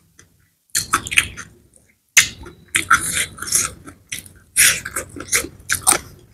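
A person chewing and eating food by hand, with smacking mouth sounds in quick irregular bursts after a short pause at the start.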